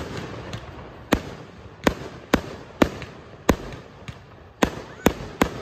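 Aerial firework shells bursting: about eight sharp bangs at uneven intervals, one every half second to a second.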